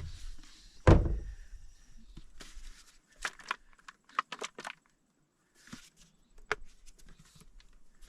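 A heavy thump about a second in, then a scattering of light clicks and rattles with short pauses, as of cooking gear and food items being handled and set down.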